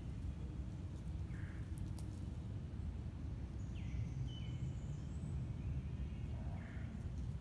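Wild birds calling a few times over a steady low rumble: short high chirps, and two calls that slide downward about four seconds in.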